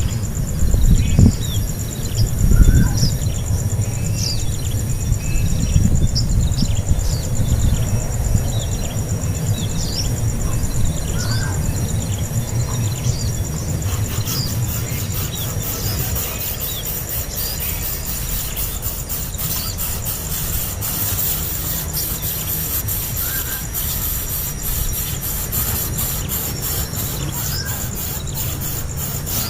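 Five-day-old nestling birds giving thin, high begging cheeps: short falling squeaks repeated every half second or so, over a low rumble.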